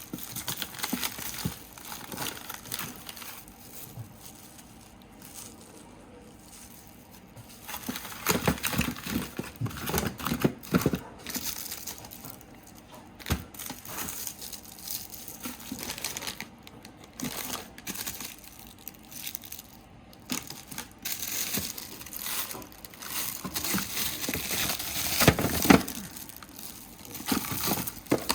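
Plastic food packaging crinkling and rustling as items are handled, with irregular clicks and knocks of things being moved and set down. The loudest knocks come near the end.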